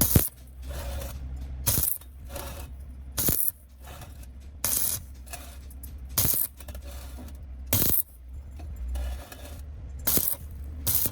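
Short metallic clinks repeating about every one and a half seconds, over a steady low hum.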